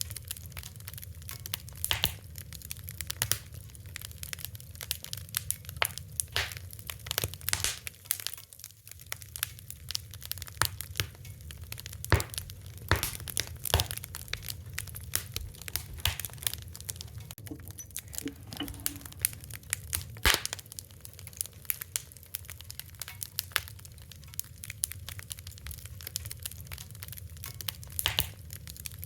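Fire crackling: irregular sharp pops and snaps over a steady low rumble, with a few louder cracks scattered through.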